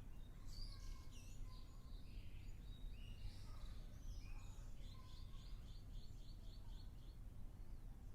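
Several wild birds calling and chirping over a low, steady background rumble, with a quick run of about ten short, evenly spaced notes about five seconds in.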